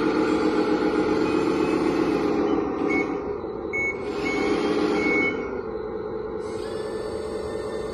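RC model articulated dump truck's sound module playing a simulated diesel engine running, with four short reversing beeps from about three seconds in. The engine sound drops after about five and a half seconds, and a high thin whine joins near the end.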